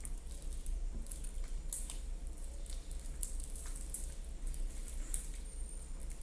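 Hands kneading and mixing a large, heavy mass of slime in a bowl, squishing with irregular small sticky clicks. A low steady hum runs underneath.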